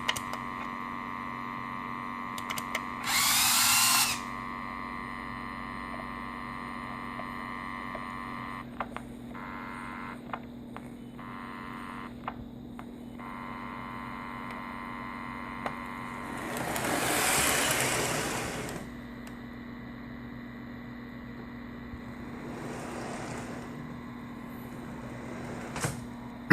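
Lionel R-30 O-gauge subway train running on a short test track, over a steady electric hum from the track power. About three seconds in there is a loud hiss lasting about a second that starts and stops abruptly. Around seventeen seconds the motor and wheel noise swells and fades over a couple of seconds.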